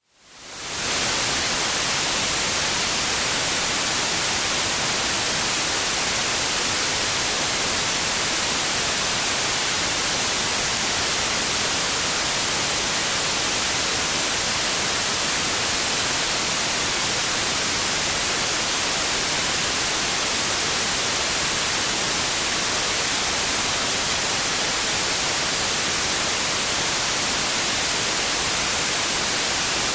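Steady white noise: an even, unbroken hiss with no tones or rhythm. It briefly fades out to near silence and back in right at the start, then holds a constant level.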